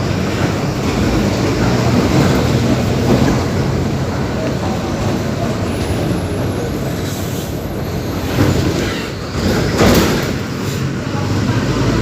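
Mercedes-Benz OF-1721 BlueTec 5 bus's diesel engine running steadily, with body and road rumble and a couple of louder knocks near the end.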